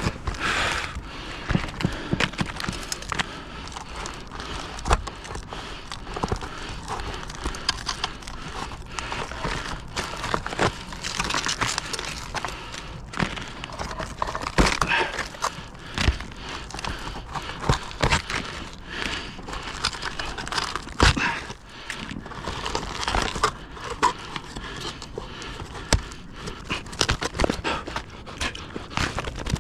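Clothing rustling and crinkling close to the microphone as a sweater is pulled off, with scattered knocks and clicks throughout.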